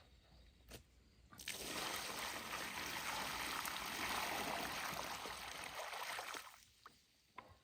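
Water running or pouring in a steady stream for about five seconds, starting and stopping abruptly.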